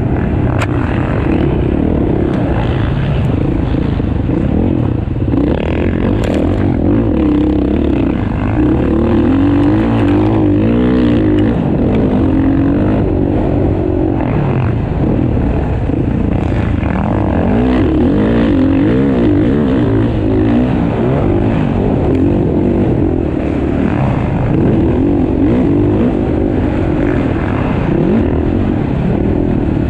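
Motocross bikes racing around the track, their engines revving up and down without a break as riders work the throttle through corners and jumps.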